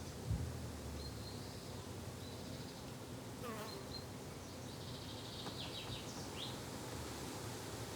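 A flying insect buzzing steadily, with short high bird chirps now and then. There is a brief low thump just after the start.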